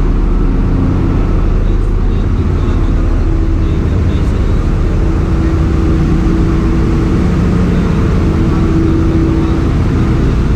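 Ship's engine-room machinery running: a loud, steady drone of engines and pumps with a low hum.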